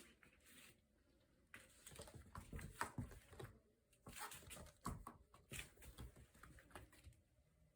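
Faint, irregular taps, scuffs and rustles of kittens playing, starting about a second and a half in.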